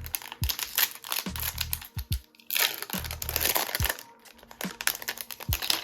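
Crinkling and tearing of a baseball card pack's wrapper being ripped open and handled, in a series of crackly rustles. Background music with a steady kick-drum beat plays underneath.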